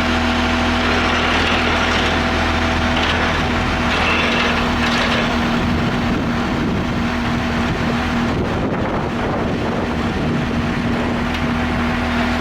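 A large wheel loader's diesel engine running steadily, its hum turning rougher for several seconds in the middle, as when the machine is worked under load.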